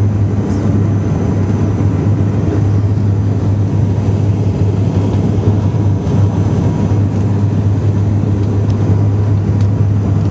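Cabin noise inside a turboprop airliner on approach: a steady low propeller drone over the even roar of engines and airflow.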